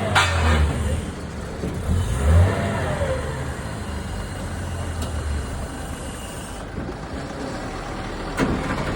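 Car engine revved in two short blips in the first few seconds, its pitch rising and falling, then running more steadily. A sharp knock sounds about eight and a half seconds in.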